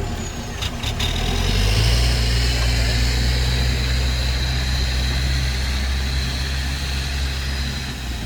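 Heavy diesel engine running steadily at a low, even hum, with a few sharp clicks about a second in.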